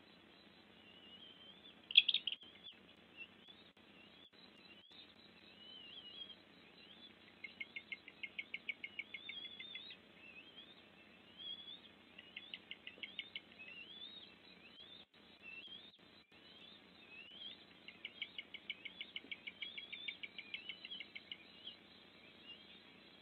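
Birds calling: many short, high rising whistled notes and three bursts of rapid trilled notes, with one sharp, louder note about two seconds in.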